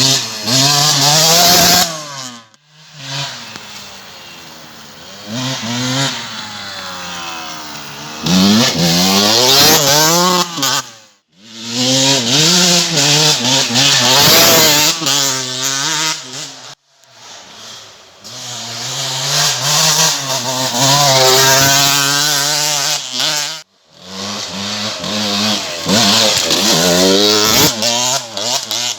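KTM EXC 125 single-cylinder two-stroke enduro engine revving hard, its pitch climbing and falling again and again as the bike is ridden. The sound cuts off suddenly four times and picks up again.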